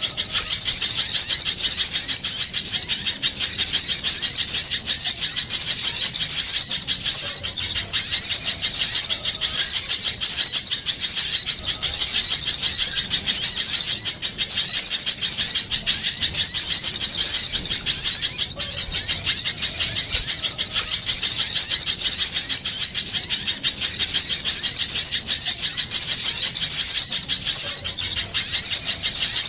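Dense, continuous chattering of small birds, many quick high chirps overlapping without a pause. This is an agitated-flock lure call ('pikat burung kecil ribut') used to draw small birds in.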